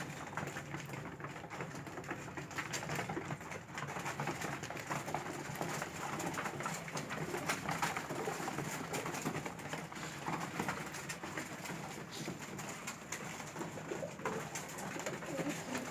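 Pigeons feeding: a continuous patter of small pecking taps at food, with pigeons cooing.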